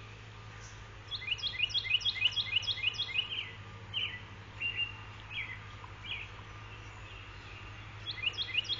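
A small songbird singing: a quick run of short, high, falling chirps lasting a couple of seconds, then a few single notes about a second apart, and another quick run near the end. A steady low hum sits underneath.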